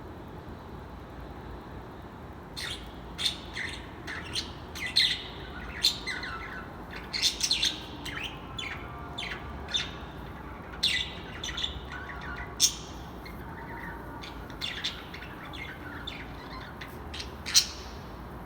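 Birds chirping and calling: many short, sharp, high notes in quick, irregular succession, starting a couple of seconds in, over a steady low background noise.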